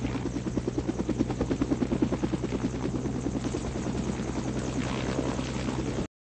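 A machine running with a steady low hum and a rapid, even pulsing of about eight beats a second; the sound cuts off suddenly near the end.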